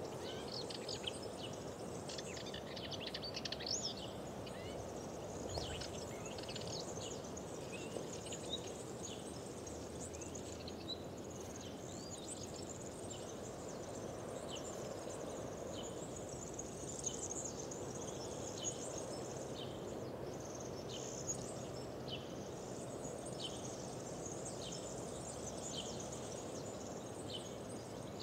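Wild birds chirping, with a flurry of calls in the first few seconds and then one short high call repeated about once a second, over a steady low rushing background.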